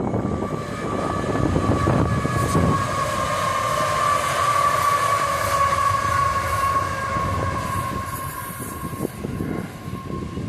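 Freight train running past: a steady low rumble with occasional knocks, and a long, steady high tone held over it that fades near the end.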